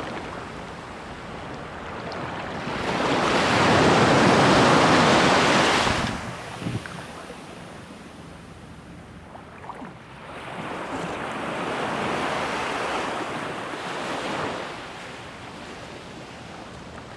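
Ocean surf washing up the beach in two surges. The first, louder one comes a few seconds in and stops abruptly; the second, softer one follows about ten seconds in. Light wind is on the microphone.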